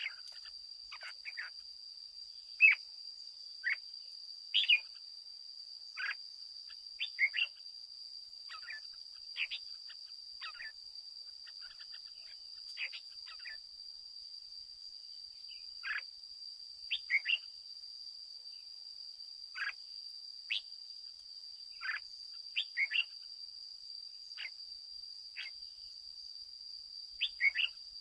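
Red-whiskered bulbul giving short chirping call notes, singly and in quick pairs or triplets every second or two, over a steady high-pitched whine.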